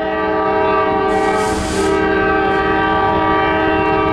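Nathan K5LA five-chime locomotive air horn sounding one long, steady chord. A brief hiss comes in about a second in.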